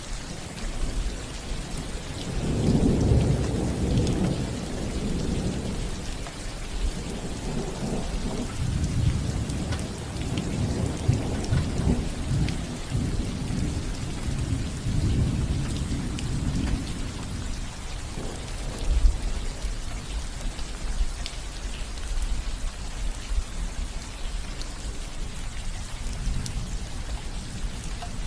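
Steady rain falling on a roof, with low rolling thunder rumbling from about two seconds in and again through the middle. One sharper, louder tap comes about two-thirds of the way through.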